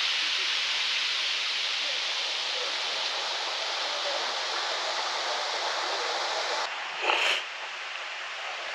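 Steady rushing hiss of Yosemite Falls' falling water. It drops to a quieter level about seven seconds in, just after a brief louder swish.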